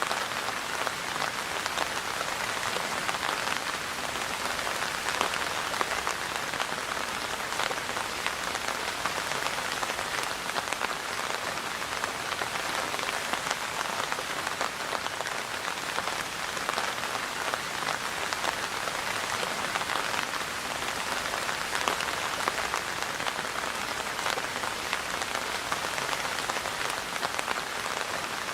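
Steady rain falling and pattering on surfaces, a dense even hiss of many individual drops.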